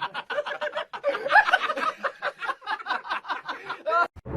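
A person laughing hard in a long run of quick, breathy pulses, about five or six a second, cut off suddenly near the end.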